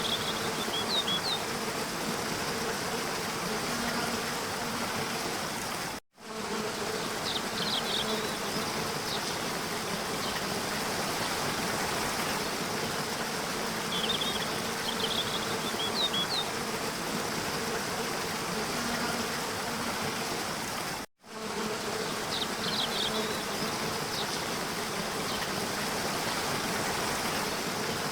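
Steady rush of a waterfall with a low, steady buzz under it and short high bird chirps every few seconds. The sound cuts out completely for a moment twice, about 6 and 21 seconds in: the seams of a looped recording that repeats every 15 seconds.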